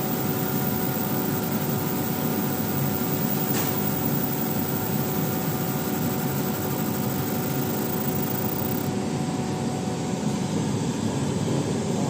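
CK 250 2.0 CO2 laser marking machine running while it marks leather: a steady whir of fans with a constant hum, and one faint tick about three and a half seconds in.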